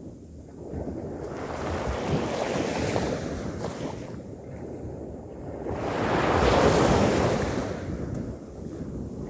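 Ocean waves breaking and washing on a beach, the rush swelling and ebbing, loudest about two-thirds of the way through, with wind buffeting the microphone.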